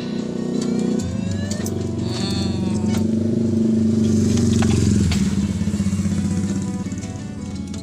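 A motor vehicle engine passing close by, growing louder to a peak about halfway through and then fading, over electronic music with falling tones and clicks near the start.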